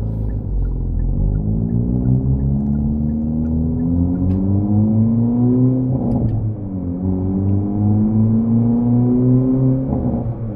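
Hyundai Veloster N's 2.0-litre turbocharged four-cylinder engine and exhaust, in Sport Plus exhaust mode, heard from inside the cabin while accelerating. The revs climb steadily, drop sharply at a gear change about six seconds in, climb again, and drop once more at another shift near the end.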